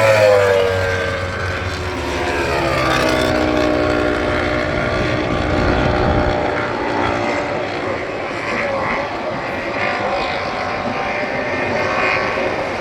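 Racing motorcycle engines on a slow lap: one engine's note drops in pitch as it passes in the first couple of seconds, then a steady engine drone carries on.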